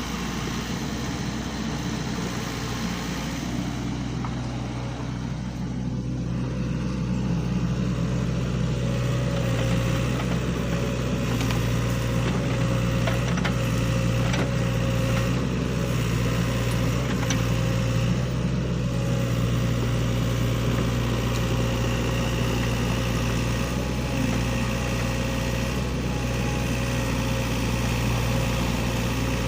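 SANY hydraulic excavator's diesel engine running steadily as it works, growing a little louder about a quarter of the way in and then holding.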